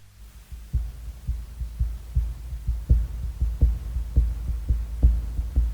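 Opening of a folk music backing track: deep drum beats in an uneven, repeating rhythm, fading in and growing louder, over low sustained bass notes.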